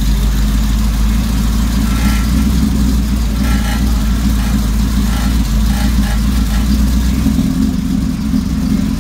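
Car engine idling steadily through an aftermarket exhaust with headers, a Magnaflow X-pipe and Borla XR1 mufflers, with a deep, even exhaust note. The low tone changes slightly near the end.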